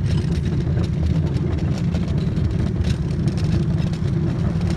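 Steady low rumble of a railway hand car's steel wheels rolling along the rails, with faint scattered clicks.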